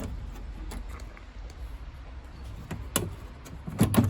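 Scattered sharp clicks, then a louder clatter of knocks near the end, as metal parts of a gas combi boiler are handled during dismantling, over a steady low hum.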